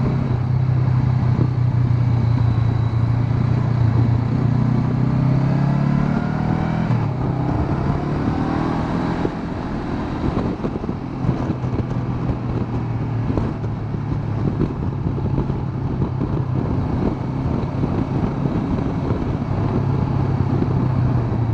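Honda CB500X's 471 cc parallel-twin engine running under way. Its pitch climbs over the first several seconds and drops sharply about seven seconds in, turns rougher and a little quieter for a few seconds around the middle, then settles into a steady drone.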